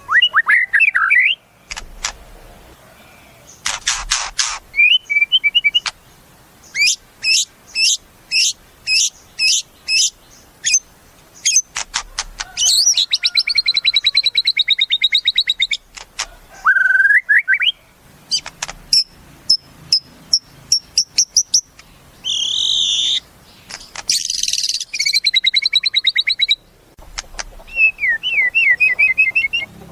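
White-rumped shama (murai batu) singing a long, varied song: runs of sharp repeated notes about two a second, rising whistles, fast rattling trills and a harsh buzzy phrase a little past the middle, with short pauses between phrases.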